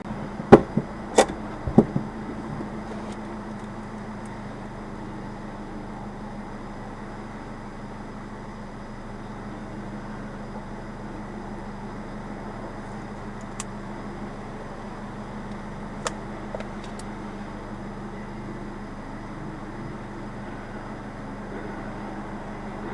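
Subaru Sambar engine running steadily, heard inside the cabin, with three sharp knocks in the first two seconds and a couple of faint clicks later on.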